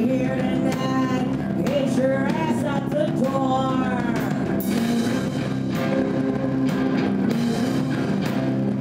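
Live rock band playing loudly and steadily: guitar and drum kit, with a pitched line bending up and down in the first few seconds.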